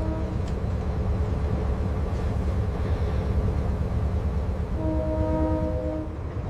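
Ship's horn sounding a steady single-pitched blast that ends just after the start, then a second blast of about a second near the end, over a constant low rumble.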